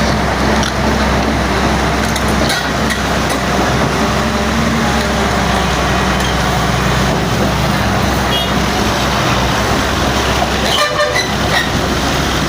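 Heavy diesel engine of a JCB JS205 tracked excavator running steadily under work. A short horn toot sounds about eleven seconds in.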